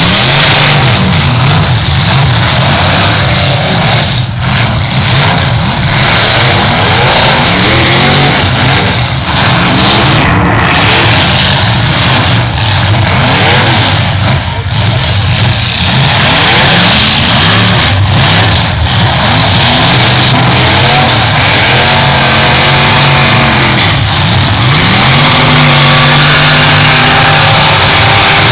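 Several eight-cylinder demolition derby car engines revving hard together, their pitch rising and falling over and over as the cars spin their wheels in the arena.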